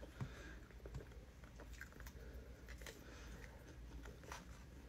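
Faint chewing of fried chicken gizzards with the mouth closed: soft scattered mouth clicks, about five over a few seconds, over quiet room tone.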